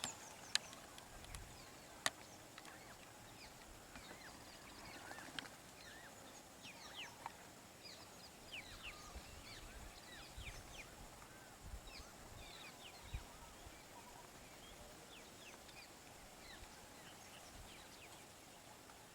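Many small birds chirping faintly, short quick falling calls scattered through most of it, over a low outdoor hiss. A couple of sharp clicks near the start.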